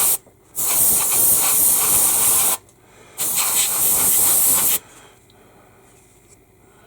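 Airbrush spraying paint, a loud steady hiss of air in three bursts of about two seconds each with short breaks between, then stopping about five seconds in.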